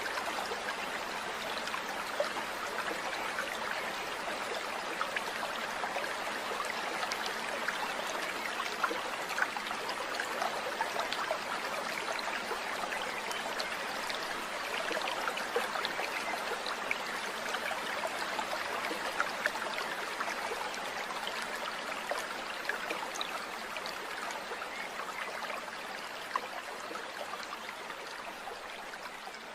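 Running water of a stream or trickle: a steady, dense rush full of tiny quick splashes, fading a little near the end.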